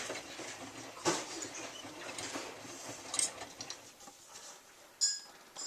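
Miele W3744 washing machine drum tumbling a dark wash: laundry and water swishing unevenly, with scattered knocks and a short, sharp high click near the end.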